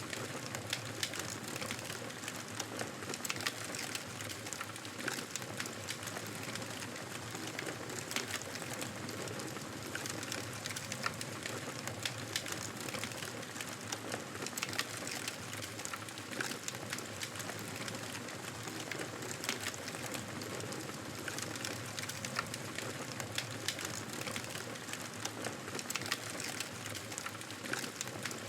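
Wood fire crackling in a fireplace: a steady soft hiss with many small, sharp pops and snaps scattered throughout.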